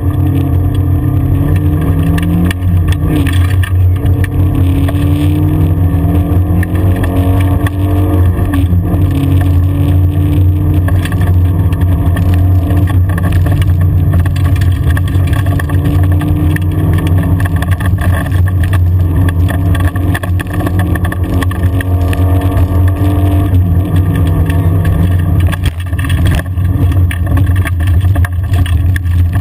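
Rally car's engine heard from inside the cabin, driven hard along a gravel forest track: its pitch climbs again and again as it pulls through the gears, over a steady low rumble and the rush of tyres on gravel.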